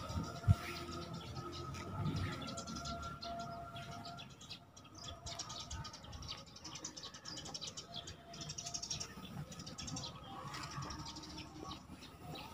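Birds chirping on and off over quiet outdoor background. A single sharp thump about half a second in.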